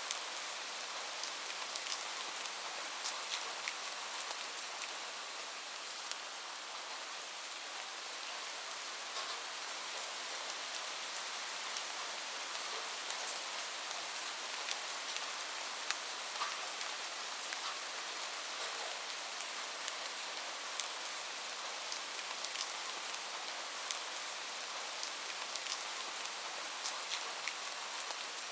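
Steady rain falling on a roof: a constant hiss with many scattered sharp taps of single drops.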